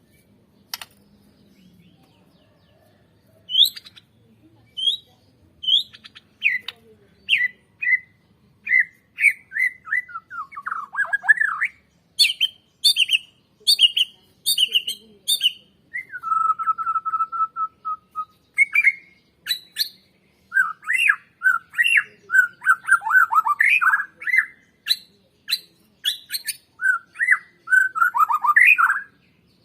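White-rumped shama (Borneo murai batu) singing a loud, varied song: short whistled notes and quick rising and falling phrases, with one steady held whistle about sixteen seconds in.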